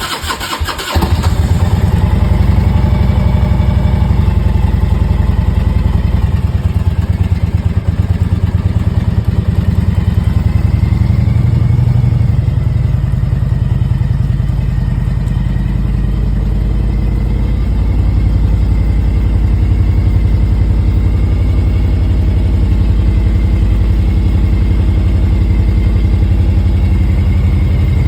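2001 Harley-Davidson Road King Classic's Twin Cam 88 V-twin cold-starting after four months' sitting: a brief, uneven stretch as it is cranked, catching about a second in, then idling steadily.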